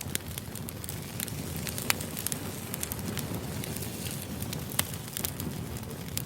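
Wood fire crackling: a steady low rumble of burning logs with scattered sharp pops and snaps, the loudest about two seconds in and again just before five seconds.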